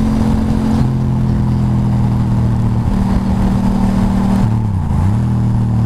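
Motorcycle engine running at a steady cruising pace under wind and road noise. The engine note steps down slightly about a second in, then dips briefly and comes back up near the end, as the throttle is eased and reapplied.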